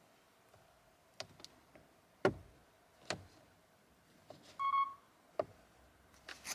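Sharp clicks and knocks of the car's plastic interior trim being handled while the instrument panel is taken apart, the loudest a little over two seconds in. A single short electronic beep sounds a little after the middle.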